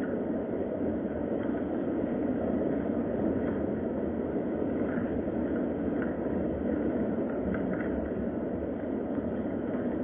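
Steady rain ambience: an even, low rushing noise with a rumble underneath and a few faint ticks about halfway through.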